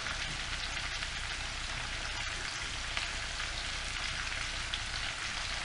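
Pineapple, potato and carrot pieces frying in oil in a pan on a gas hob: a steady sizzle.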